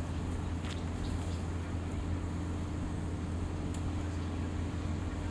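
A steady low hum from a running motor or engine, with a couple of faint clicks.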